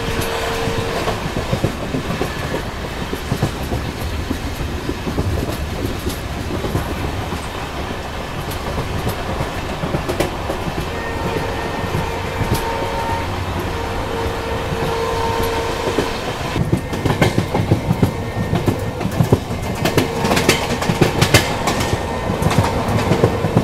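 Passenger train of ICF coaches running on track: steady wheel and rail noise with a faint steady tone that comes and goes. In the second half, sharp clacks become frequent, as the wheels run over rail joints and points nearing a station.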